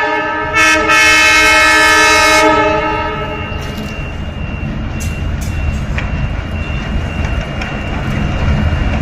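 Train horn sounding one long, loud blast for nearly three seconds, followed by the low rumble of a train that grows louder as it comes closer, with a few sharp clicks from the wheels on the rails.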